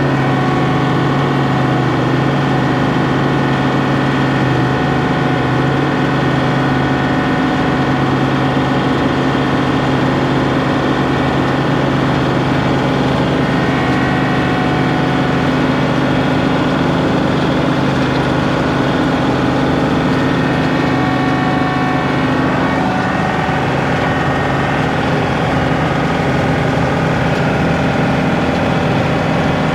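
John Deere 2038R compact tractor's diesel engine running steadily, with a slight drop in pitch and level about 23 seconds in.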